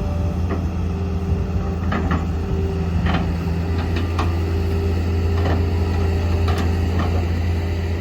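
Heavy diesel engine running steadily, with a scattering of short knocks and clanks over it.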